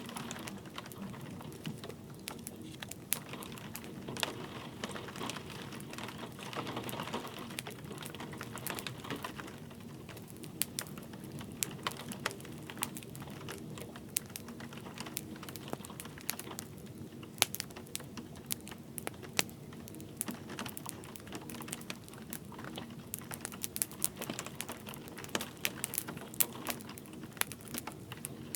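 Wood fire crackling in a fireplace, a steady run of sharp pops and snaps that come thicker in the second half, over a soft steady hiss of light rain.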